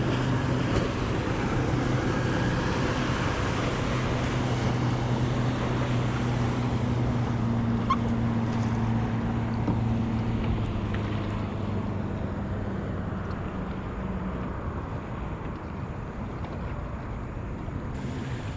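Outboard motor of a johnboat running steadily as it moves away, its low hum fading out about fourteen seconds in, over a wash of water and wind noise from the boat's wake.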